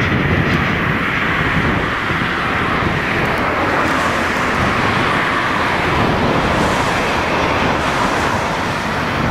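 A passing train giving a loud, steady rolling noise that holds evenly throughout.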